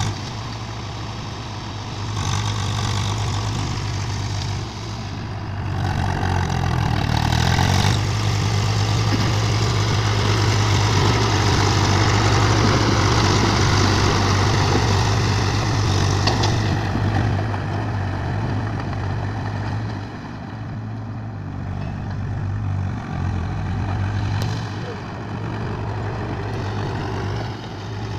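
Swaraj tractor's diesel engine running steadily, getting louder from about six seconds in and easing back down after about seventeen seconds.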